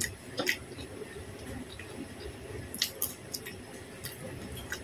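Close-up mouth sounds of chewing soft food, rice and chicken, with wet clicks and smacks scattered through and a cluster of them near three seconds in.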